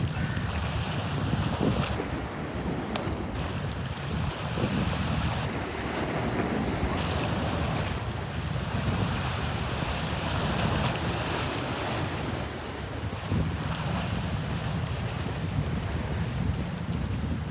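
Sea waves washing and lapping in a steady wash, with wind buffeting the microphone in a low rumble.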